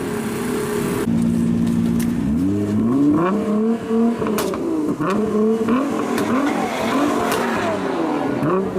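Straight-piped Lamborghini exhaust idling for about two seconds, then revved up and down repeatedly in quick blips, with a few sharp cracks between the revs.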